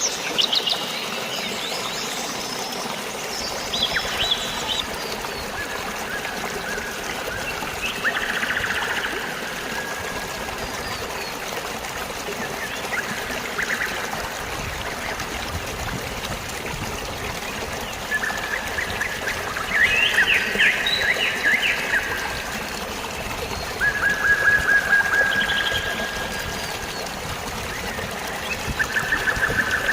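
Steady rush of flowing, trickling water with birds calling over it: scattered chirps, and short bursts of rapid trilled notes several times in the second half.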